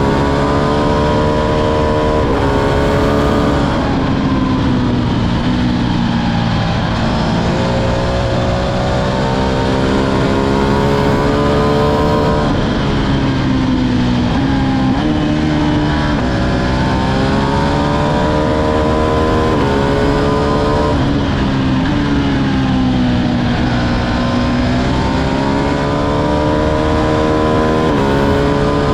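Ducati Streetfighter V2's 955 cc twin-cylinder engine under hard riding: the pitch climbs through the revs and drops abruptly at each upshift, several times over, with a couple of slower falls as the throttle is rolled off before it pulls up through the gears again.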